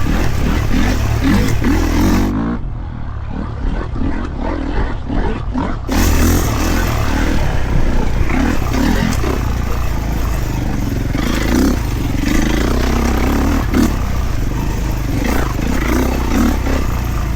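Kawasaki KX450 dirt bike's single-cylinder four-stroke engine being ridden off-road, its pitch rising and falling again and again as the throttle is worked on and off.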